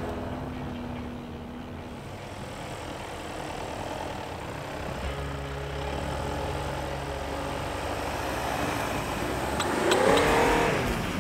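Crossover SUV engines working through deep snow. About ten seconds in, a Volkswagen Tiguan's engine revs up and back down as its wheels spin and throw snow; this is the loudest moment.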